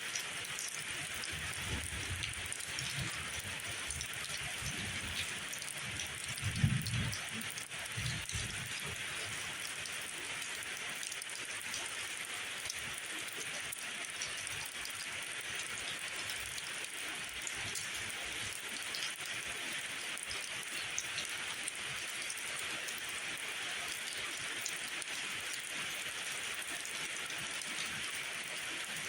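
Steady rain falling, an even hiss. A few low thuds come in the first several seconds, the loudest about seven seconds in.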